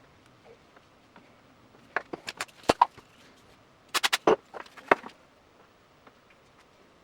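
Two short bursts of sharp clicks and knocks, one about two seconds in and one about four seconds in: hard parts or tools being handled and set down during repair work.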